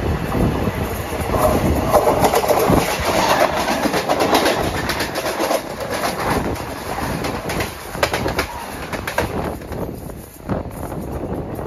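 A passenger train running, heard from on board: steady rolling noise with wheels clicking and clattering over rail joints. It grows more squealing in the first half, then quietens near the end.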